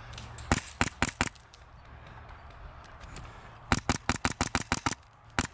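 Airsoft rifle shots: four quick shots, then about two seconds later a rapid string of about ten at roughly eight a second, and one last shot near the end.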